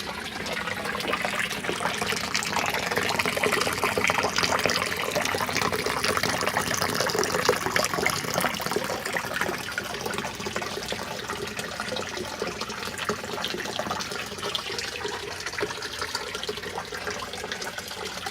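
Water running and splashing steadily, as from a filter or pipe outflow falling into a fish tank, a little louder for several seconds near the start.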